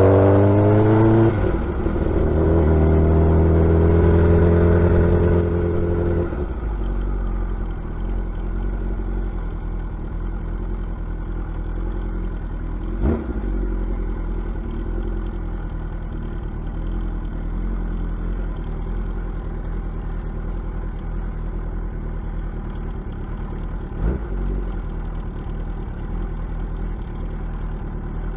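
Suzuki Hayabusa inline-four sport bike with an aftermarket exhaust, riding under throttle: the exhaust note climbs, dips briefly about a second in, then holds steady. After about six seconds it drops away to a quieter, lower running note as the bike rolls on, with two short knocks along the way.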